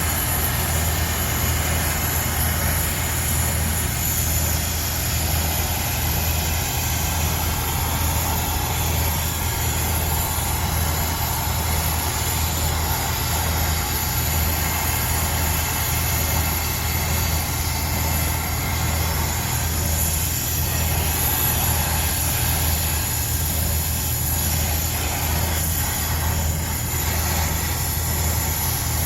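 Steady low mechanical hum of a running motor-driven machine, unchanging throughout.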